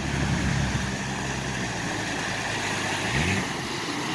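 A vehicle engine running off-road, holding a steady note and then rising in pitch a little after three seconds in as it is revved.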